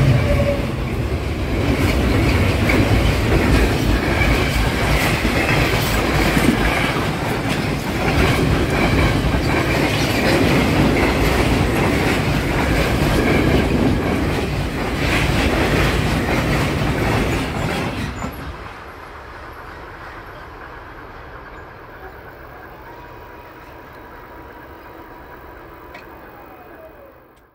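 Freight train of silo and tank wagons rolling past close by, wheels knocking over the rail joints in a continuous rumble. About 18 seconds in the last wagon passes and the sound drops to a fainter rumble that fades as the train moves away.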